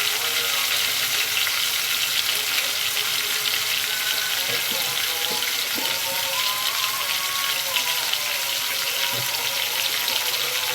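Meat searing in hot ghee in a pot, sizzling and crackling steadily.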